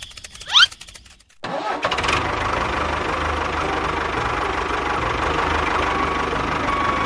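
A brief rising whine, then about a second and a half in a small motor starts up and runs steadily under a model machine.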